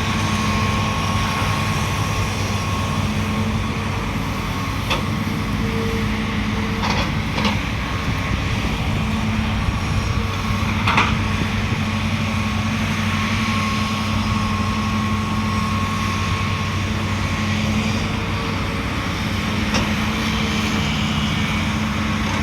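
Heavy diesel earthmoving machinery running steadily, with a continuous low engine hum. A few short knocks sound, about a quarter of the way in, twice around the middle and once near the end.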